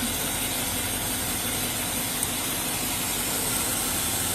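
Steady hum and hiss of an idling vehicle engine, with a faint tick or two.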